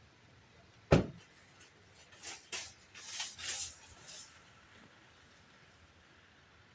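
A single sharp knock or click about a second in, then a few short scraping, rustling noises over the next couple of seconds.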